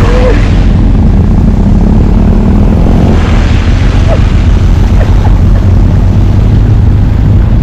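Motorcycle riding at speed: steady wind rush on the microphone over the engine's running hum.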